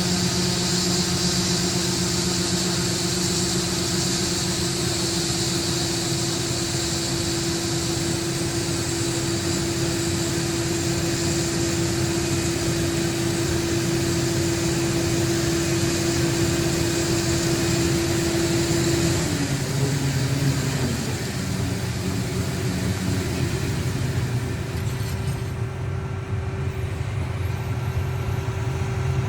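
Farm harvest machinery, most likely a combine harvester, running steadily with a constant hum and a high hiss. About two-thirds of the way through, the hum and hiss stop and the engine note shifts.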